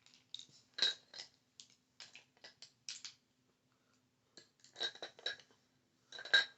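Makeup brushes being handled and knocked together, giving light, irregular clicks and clinks with a short ring. They come in clusters about a second in, around five seconds in, and just before the end.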